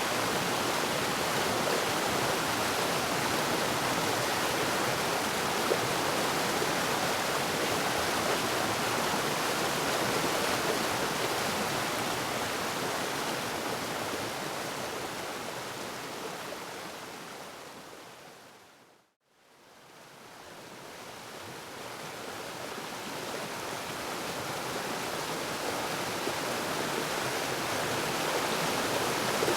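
Waterfall: steady rushing of falling water. It fades down to silence about two-thirds of the way through and fades back up again.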